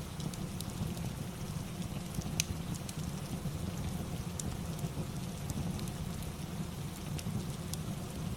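Steady rain ambience with a low, even rush, dotted with scattered sharp crackles from a fireplace.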